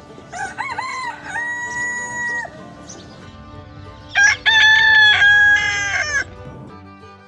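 Rooster crowing twice, each a long cock-a-doodle-doo ending on a held note, the second crow louder. Soft background music underneath.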